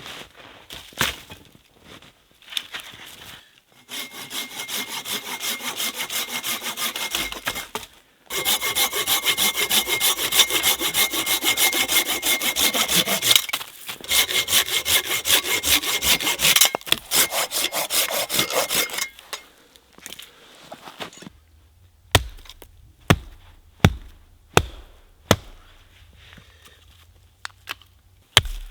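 Hand saw cutting through wood in quick, steady back-and-forth strokes, pausing twice. Near the end, about seven separate sharp knocks.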